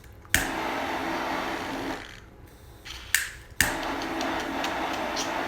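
Butane torch lighter clicked on and burning with a steady hiss, heating a dab rig's nail. The flame cuts off after about a second and a half; about a second later the lighter clicks twice and relights, then burns steadily again.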